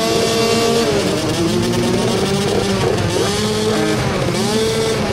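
Several dirt bike engines revving on a race track, their pitch rising and falling over and over with the throttle.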